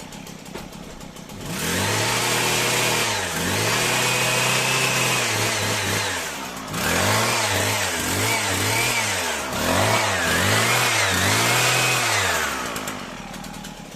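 Husqvarna 122HD45 hedge trimmer's small two-stroke engine idling, then revved up and down over and over with throttle blips before dropping back near the end. It is running now that the air leak from the loose cylinder base bolts is sealed, but the carburettor still needs adjustment.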